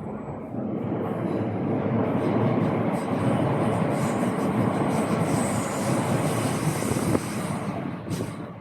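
A train passing close by: a steady rush of wheel and rail noise that builds over the first two seconds and fades near the end, with one sharp click about seven seconds in.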